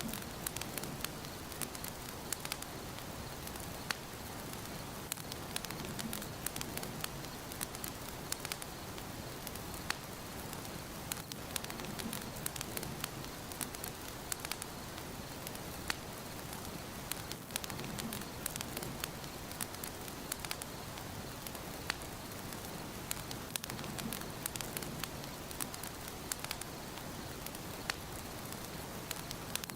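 Wood fire burning in a fireplace, crackling and popping with many sharp, irregular snaps over a steady hiss.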